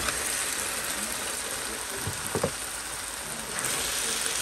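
Marinated mutton pieces landing in a pan of hot masala and sizzling, with a knock at the start and two knocks against the pan about two seconds in. The sizzle grows louder near the end as the meat is stirred in with a spatula.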